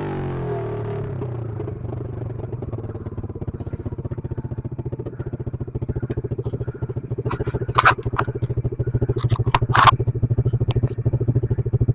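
Pit bike engine idling with a fast, even putter, and a few sharp metallic clacks about two thirds of the way through.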